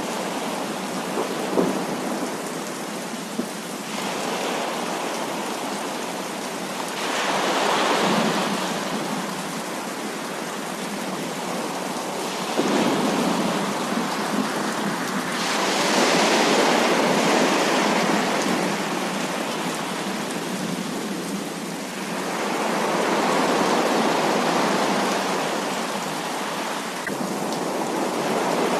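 Heavy rain falling steadily, with rolling thunder swelling up and fading away about four times.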